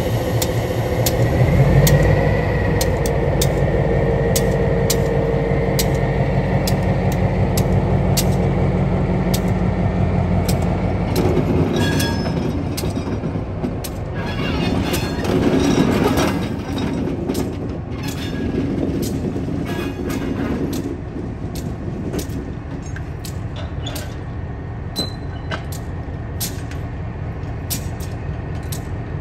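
EMD SW1200 diesel switcher locomotive working, its engine note swelling about two seconds in and then running steadily. Around twelve seconds in the engine note drops away, leaving the rolling and clanking of railcars on the track. Sharp clicks run throughout.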